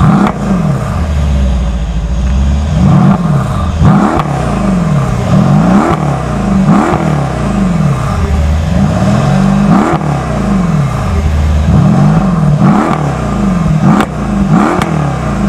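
Mercedes SL63 AMG twin-turbo V8 revved hard while stationary, heard from behind at the exhaust. The engine is blipped again and again, its pitch rising and falling about once a second.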